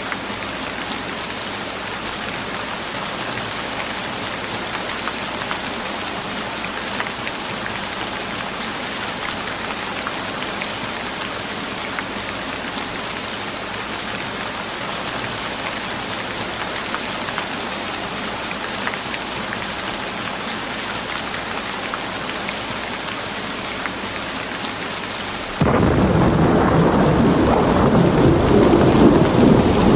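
Steady rain ambience, an even hiss. About 26 seconds in it switches abruptly to a louder, deeper rainstorm with thunder rumbling.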